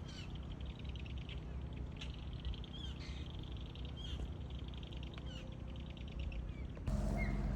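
Birds calling: a steady buzzy chatter with short high downslurred calls about once a second, over a low steady hum. A louder low rumble comes in near the end.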